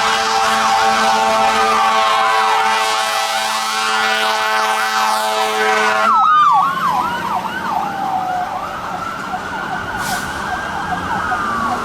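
Fire engine air horn blaring steadily for about six seconds, then cutting off suddenly, over electronic sirens that alternate rapid yelp sweeps with slower rising and falling wails. The sirens keep going after the horn stops.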